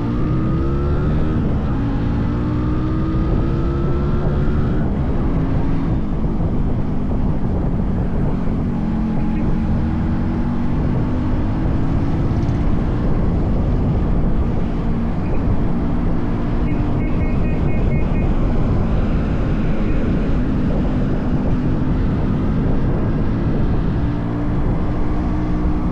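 Yamaha RX100's 98 cc air-cooled two-stroke single running under way, revving up over the first few seconds and then cruising at fairly steady revs, with wind rushing over the microphone. A short series of high beeps comes about two-thirds of the way through.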